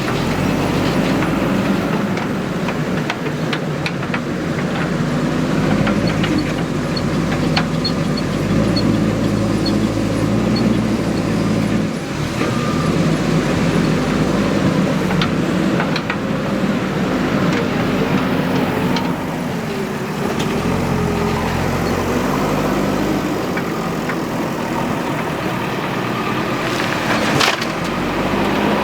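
Diesel engine of a working backhoe loader or dump truck running under changing load, its pitch wavering up and down, with scattered clanks and knocks, one sharper clank near the end.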